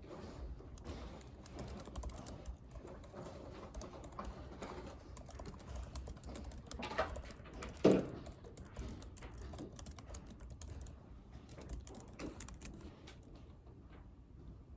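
Typing on a computer keyboard: quick, irregular keystrokes that thin out near the end. A single louder thump comes about eight seconds in.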